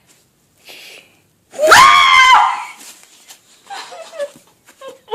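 A person being tickled lets out one loud high-pitched squeal about two seconds in, rising in pitch, followed by fainter giggling noises.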